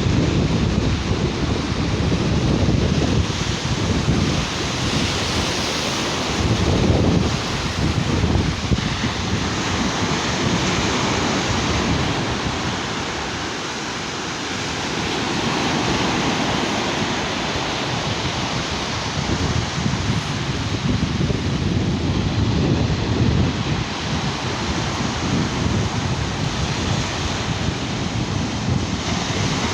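Sea waves washing onto a beach, a steady hiss that swells and eases, with wind buffeting the microphone.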